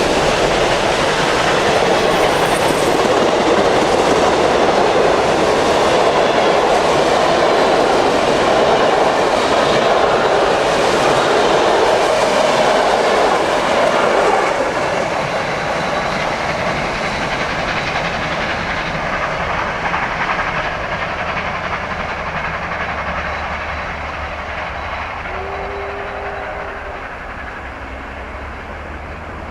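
Steam-hauled train passing, its wheels clattering over the rail joints: loud for about the first half, then fading away as it recedes.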